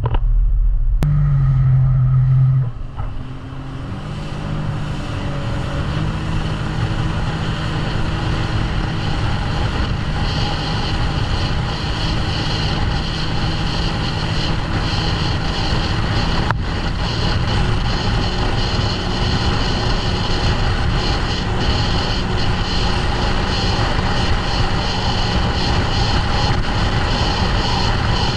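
Jet ski engine picking up speed a few seconds in, its pitch climbing in steps, then running steadily at speed with a constant hiss over it.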